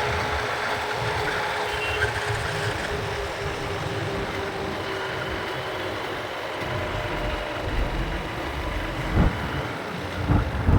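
Motorbike ride through city traffic: wind buffets the microphone and traffic runs alongside, with a steady tone over the first half.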